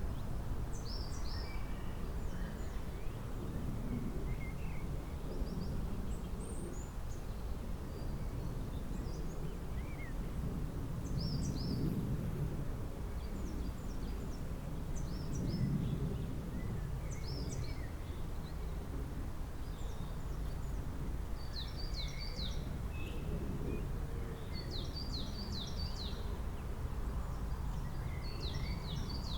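Several small songbirds chirping and singing in short high notes, some in quick runs of three to five falling notes, over a steady low background rumble.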